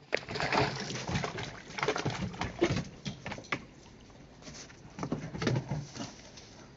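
Puppies making small low grunting, cooing noises, with scuffling and clicks. The sounds are busy for the first few seconds, and come again briefly about five seconds in.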